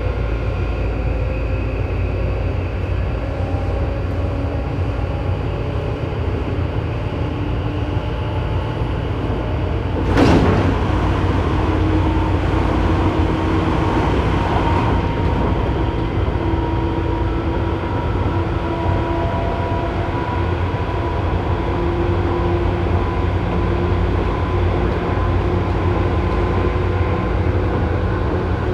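Tobu 9000-series electric train running, heard inside car MoHa 9204 above its armature chopper control, whose chopper makes an abnormal noise. A steady running rumble carries faint whining tones from the chopper and motors, which grow plainer after about twelve seconds. A sudden loud rush comes about ten seconds in.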